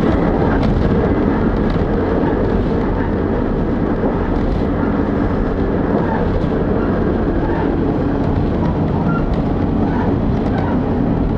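A diesel railcar on the move, heard from inside its cabin: a steady running rumble of engine and wheels on the rail, with faint light ticks.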